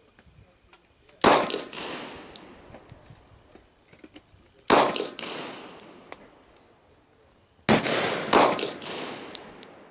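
Glock 22 pistol firing .40 S&W rounds slowly, four shots with an echoing tail after each, the last two close together. Small metallic tinkles follow each shot as spent brass casings land.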